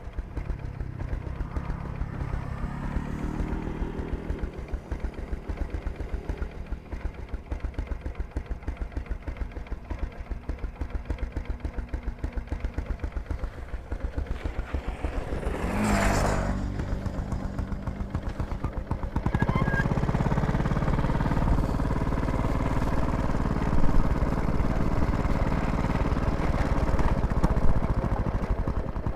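An engine running with a steady, rapid pulse throughout. About sixteen seconds in, a brief louder whoosh swells and fades. From about twenty seconds on, the engine runs louder.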